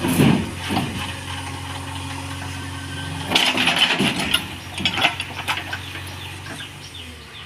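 A vehicle engine running steadily, with a loud swell right at the start. A burst of rattling, clattering knocks comes from about three to five and a half seconds in, and the engine fades near the end.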